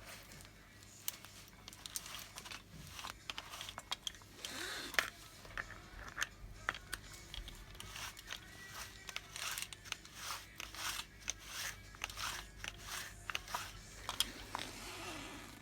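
Irregular clicks, scrapes and rattles of hands working on a car window regulator and its cables.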